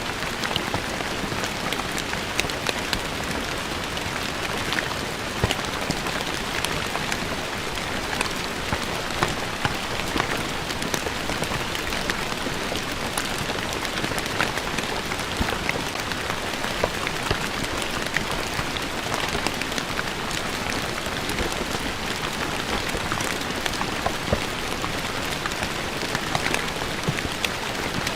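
Steady rain falling on stone paving, a dense patter with many sharp individual drop hits.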